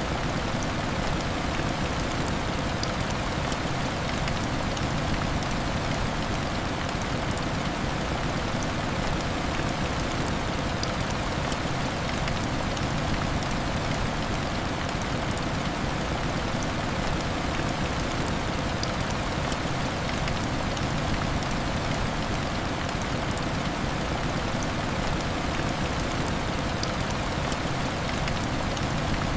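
Steady heavy rain on window glass, an even hiss dotted with many fine ticks of single drops.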